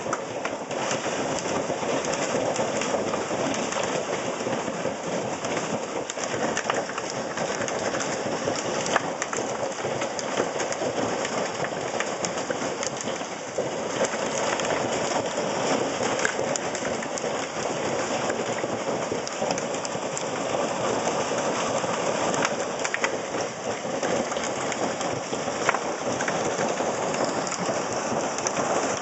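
Hail pelting down steadily in a dense hiss of countless small impacts.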